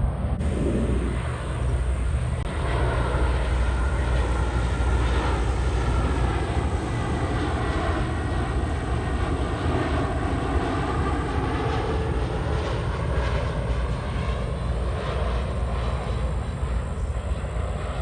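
Jet airliner on landing approach passing by, its engine whine gliding slowly down in pitch as it goes past, over a steady low rumble.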